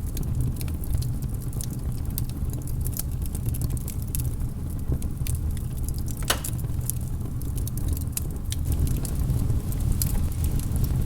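Logs burning in a fireplace: a steady low rumble of flames with frequent small crackles and pops, one louder pop about six seconds in.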